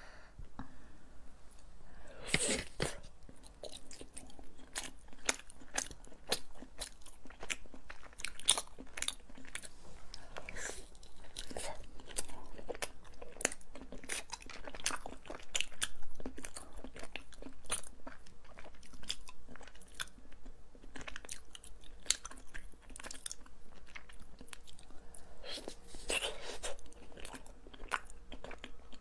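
Close-up eating sounds: a person biting and chewing a matcha nama-chocolate dessert, with many small irregular wet clicks and smacks.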